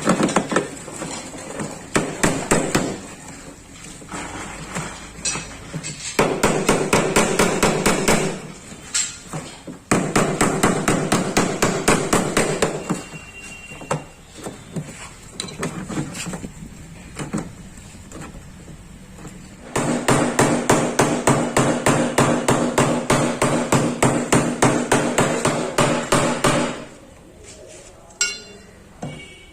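Hammer beating out a dent in a Volkswagen Polo's sheet-steel body panel, with quick runs of several blows a second. The panel rings with each strike, and there are short pauses between the runs.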